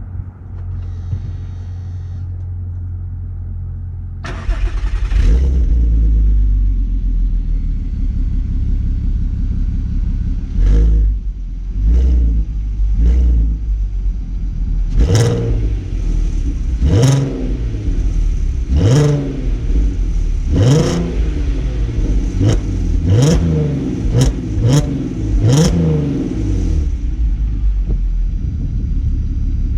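A VW Golf Mk5 R32's 3.2-litre VR6 with its stock exhaust idles warm, a few minutes after a cold start. It is then revved in a run of about a dozen short throttle blips, each rising quickly and dropping back to idle, with the later ones spaced about a second apart.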